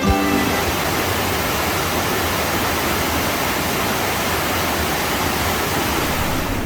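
Steady rush of flowing water in a mountain stream, an even hiss with no breaks.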